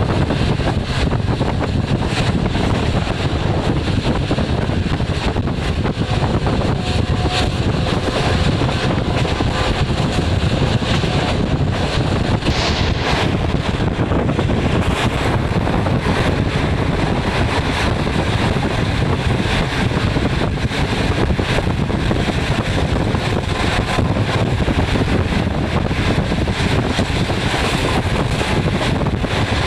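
Steady rumble and rush of a moving passenger train heard through an open window, with wind buffeting the microphone.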